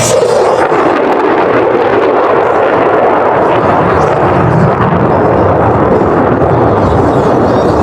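Military jet passing low and loud, its pitch falling as it goes by, then a steady engine noise that lasts throughout.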